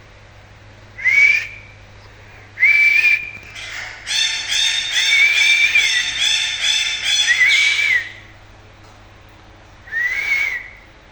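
Rose-ringed parakeet whistling: short notes that rise, hold and fall, about a second in, near three seconds and again near the end, with a louder run of rapid pulsing whistled notes in the middle.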